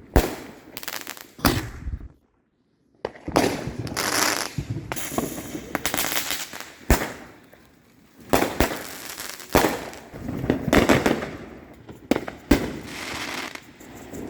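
Fireworks going off: a run of sharp bangs, each followed by crackling, with a brief dead gap about two seconds in.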